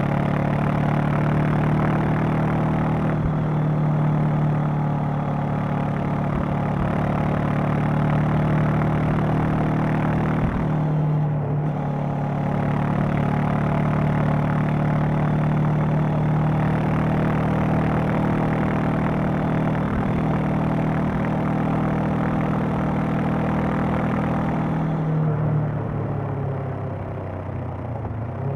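Honda CB500X's parallel-twin engine and exhaust running at a steady cruise under way. The note breaks briefly about eleven seconds in, then steadies. Near the end the pitch falls and it gets quieter as the engine slows.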